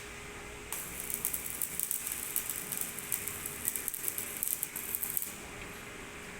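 Electric arc welding: a dense, irregular crackle of the arc that starts about a second in and stops near the end, over a steady faint hum.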